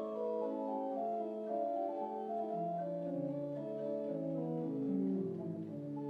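Organ playing slow, sustained chords, with a bass line entering about halfway through and stepping downward.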